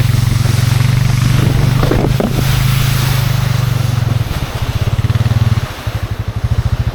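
Four-wheeler (ATV) engine running at a steady speed, then easing off about four seconds in and dropping to a slower, lumpy idle near the end.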